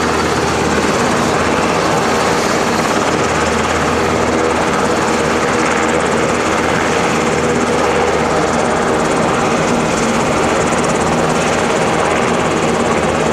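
Helicopter running, loud and steady: a continuous rotor and engine sound with a low throb.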